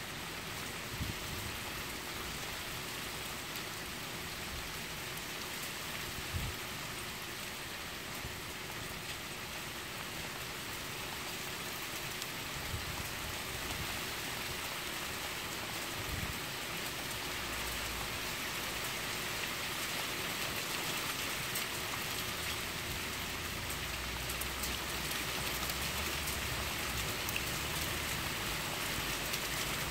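Rain falling steadily in a thunderstorm, an even hiss that grows a little louder over the half-minute, with a few faint low knocks.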